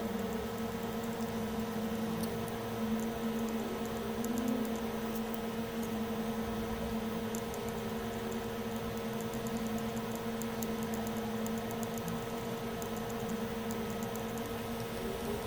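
Steady machine hum with two held low tones over a light hiss, with faint small ticks scattered through.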